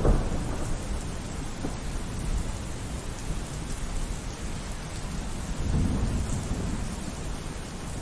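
Thunderstorm: steady rain with low rolling thunder, a sharp crack right at the start and a longer rumble swelling up about two-thirds of the way through.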